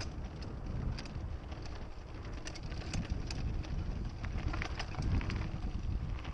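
Wind rumbling on an action-camera microphone while a mountain bike rolls over a dirt trail, with quick clicks and rattles from the bike that are busiest in the middle.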